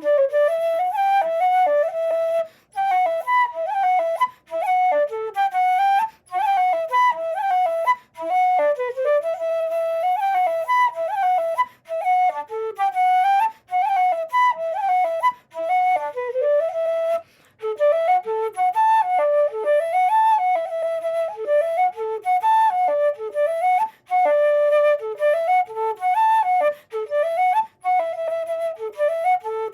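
Solo wooden Irish flute of cocus wood playing a lively slide in quick, running notes, with short gaps for breaths every few seconds.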